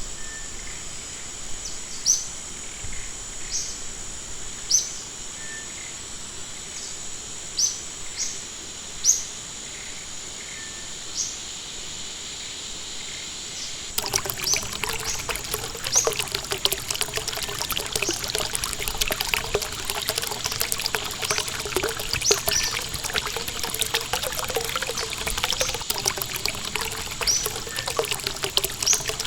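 Forest ambience: a steady high-pitched drone with short, sharp bird chirps every second or two. About halfway through it switches abruptly to a stream trickling and splashing, with the bird chirps continuing over it.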